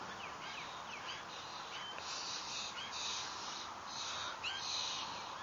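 Birds chirping: a string of short, quick falling chirps, several a second, with a few brief raspy, hissing calls mixed in during the second half.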